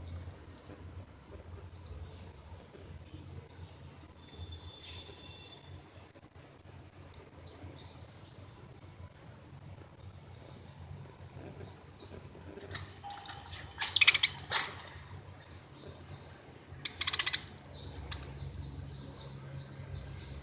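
Pet budgerigars chirping and chattering steadily in short high twitters, with two much louder, harsh squawks about two-thirds of the way through, the first the loudest.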